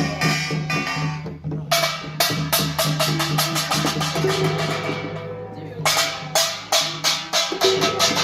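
Korean pungmul percussion ensemble playing fast: rapid ringing strikes of kkwaenggwari small gongs over drums. There is a brief lull about a second in, and the strikes thin out for a moment past the middle before picking up again.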